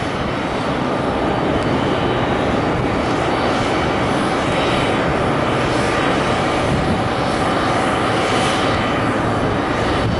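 Rolls-Royce Trent XWB jet engines of a Starlux Airbus A350-900 running steadily and loudly as the airliner passes close by.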